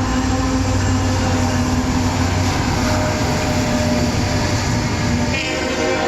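Train running past with the steady rumble and rolling noise of its locomotive and cars. The locomotive's horn starts sounding a little before the end.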